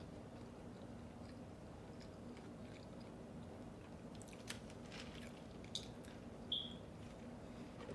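Close-miked mouth sounds of someone chewing and biting food, with several crisp crunches in the second half and a short high squeak about six and a half seconds in, over a steady low hum.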